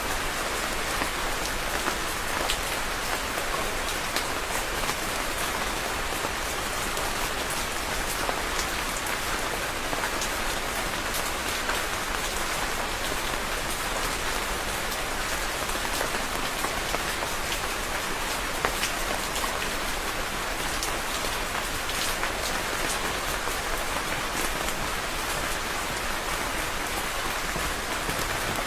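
Steady rain falling, a constant hiss dotted with many sharp individual drop ticks on a surface.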